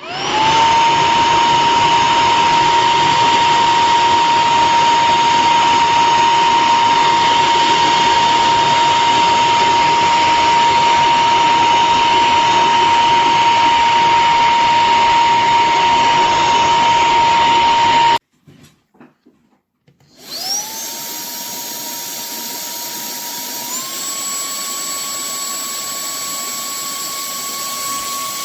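Cordless handheld vacuum motor spinning up and running with a steady high whine, then cutting off abruptly after about eighteen seconds. After a couple of seconds of small clicks it spins up again, quieter, and steps up to a higher pitch a few seconds later.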